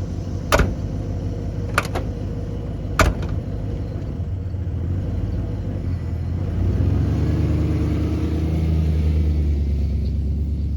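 Ford 5.0-litre fuel-injected V8 pickup engine running, with three sharp knocks in the first three seconds. About six and a half seconds in the engine gets louder and rises a little in pitch as the truck pulls away on a test drive.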